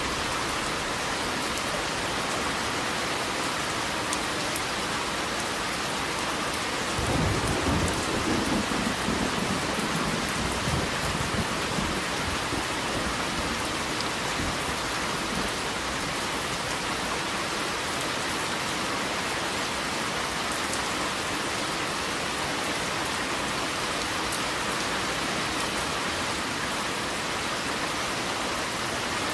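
Steady rain falling, with a roll of thunder that breaks in suddenly about seven seconds in and rumbles away over several seconds.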